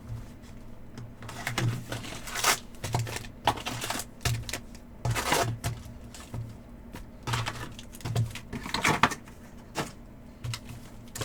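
Irregular light taps and clicks from hands working at a table, most likely trading cards and their plastic sleeves or holders being handled and set down, over a faint steady hum.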